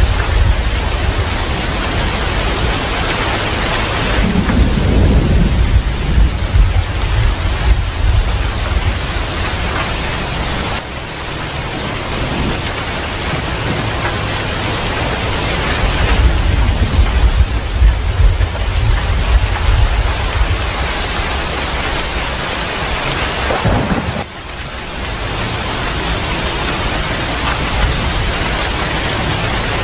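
Steady heavy rain with low rolling thunder rumbling beneath it, heaviest in the first third and again around the middle; the sound drops away briefly twice.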